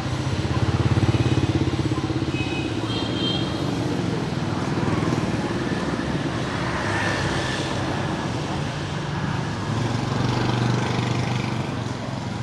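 Street traffic dominated by motorbike engines running close by, loudest about a second in and swelling again near the end, with a few brief high tones about two to three seconds in.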